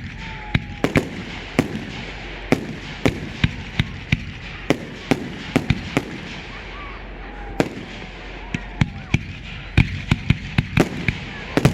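Fireworks display: a continuous, irregular string of sharp bangs from bursting shells, several a second at times.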